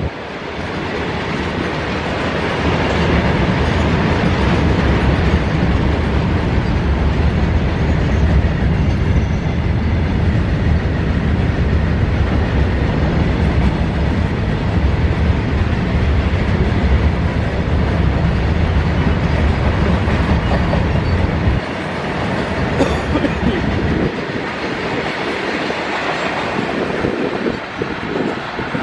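A train passing close by on the track, with a heavy continuous rumble of wheels on rail. The low rumble drops away abruptly a little over twenty seconds in, leaving a weaker, fading rolling sound.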